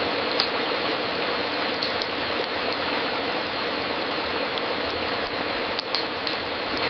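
Wood fire crackling in a fireplace: a steady crackle with a few sharper pops, two close together near the start and a pair about a second before the end.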